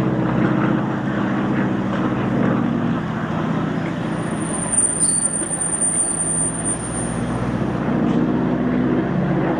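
Aircraft engine running steadily, with a thin high whine partway through.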